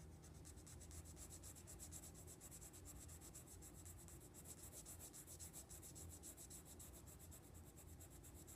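Pencil scribbling on paper in quick, faint back-and-forth strokes, shading in a drawn eye.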